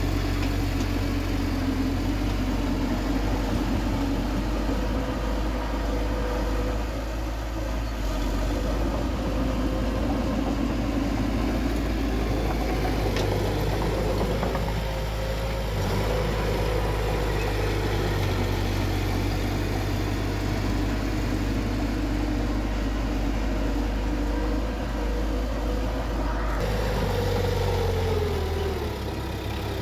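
Bulldozer's diesel engine running steadily. Its pitch falls about three-quarters of the way through as the revs drop.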